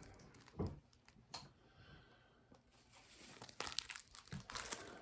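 Packaging from an online order crinkling and rustling as it is handled. There are a couple of sharp crackles in the first second and a half, then a quieter spell, and the crinkling gets busier near the end.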